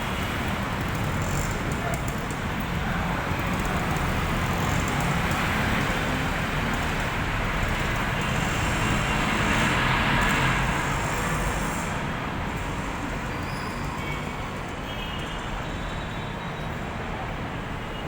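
Road traffic noise with no speech, swelling as a vehicle passes by about ten seconds in and then easing off.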